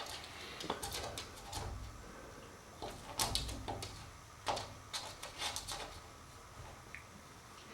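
A puppy moving about: light clicks and scrapes of its claws and paws, coming in a few short clusters.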